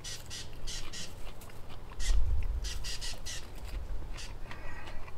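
Popcorn being chewed, a crisp crunch every fraction of a second, with a louder low thump about two seconds in.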